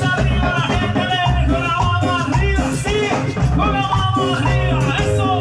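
Live Latin tropical dance-band music: a gliding lead melody over a steady, pulsing bass line.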